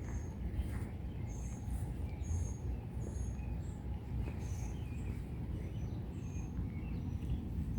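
Birds chirping with short, high, scattered notes over a steady low rumble of outdoor noise during a rain storm.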